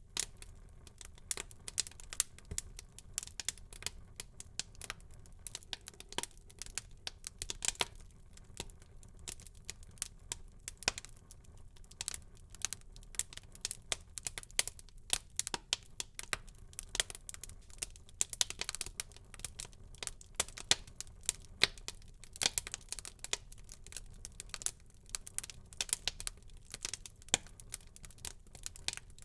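Wood fire burning in a fireplace: steady crackling, with dense irregular pops and snaps over a soft low rumble of the flames.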